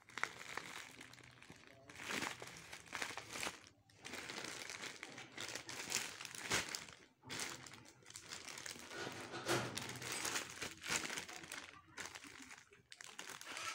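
Packaging being crumpled and rustled by hand, crinkling in uneven bursts with a few short pauses.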